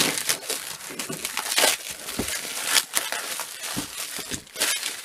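Packaging being cut and pulled open by hand: irregular crinkling, scraping and crackling, with a few sharper crackles spaced about a second apart.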